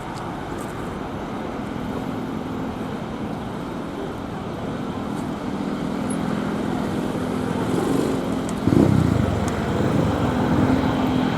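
Steady road-traffic noise with motor vehicle engines running, growing gradually louder, with a louder engine surge about nine seconds in.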